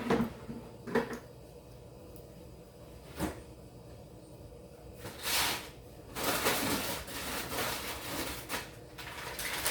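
Kitchen handling sounds: two short knocks, then from about six seconds in a stretch of rustling and light clattering as fries are handled for the oven.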